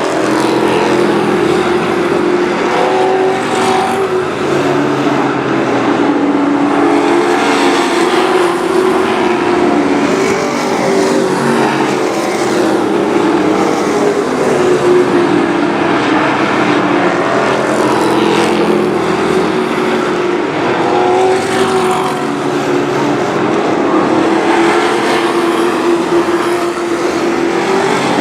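A pack of race trucks running laps on a short oval, the engines' note rising and falling as they power down the straights and lift into the turns.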